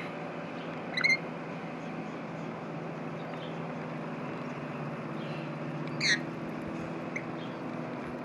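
Rainbow lorikeets giving two short, shrill screeches, about a second in and about six seconds in, with a fainter chirp a second after the second one. A steady low hum runs underneath.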